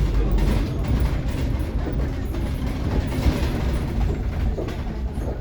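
Cabin of a moving Scania K360IB city bus: steady low rumble from the drivetrain and road, with frequent clicks and rattles from the body and fittings.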